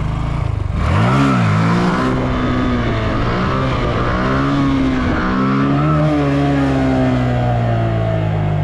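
Motorcycle engine revving: a quick blip up and down about a second in, then the pitch rises and falls several times with the throttle before settling to a steady note near the end.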